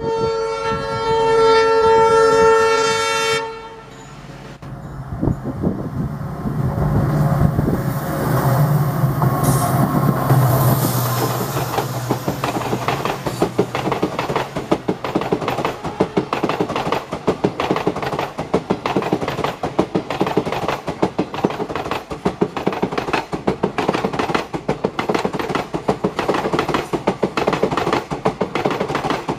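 A WDP4D diesel locomotive sounds its horn in one long held blast of about three and a half seconds, then passes with a heavy engine rumble. The express's passenger coaches follow, rolling by with a fast, steady clickety-clack of wheels over the rail joints.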